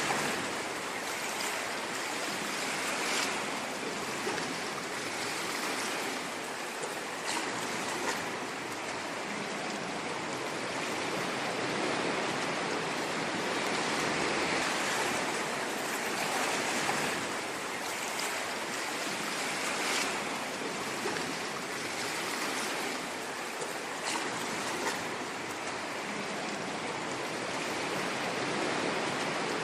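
Ocean waves washing on a shore: a continuous rushing hiss that swells and eases gently every few seconds.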